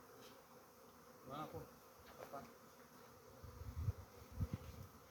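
Insects buzzing steadily and faintly, with a few low thumps near the end.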